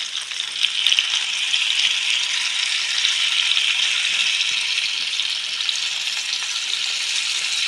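Skewered chicken tikka pieces sizzling steadily as they shallow-fry in hot oil in a pan, with a few light clicks about a second in.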